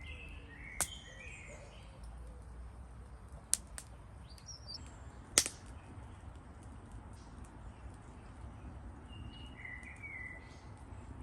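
Birds chirping in short calls at the start and again near the end, over a steady outdoor background, with three sharp snaps, the loudest about five and a half seconds in.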